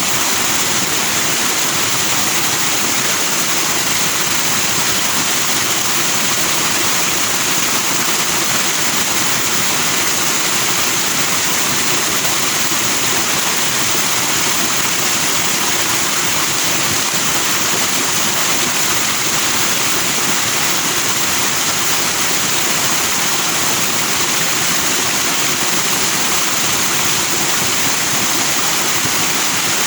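Forest stream rushing over rocks, a steady loud hiss of water foaming and splashing with no change in level.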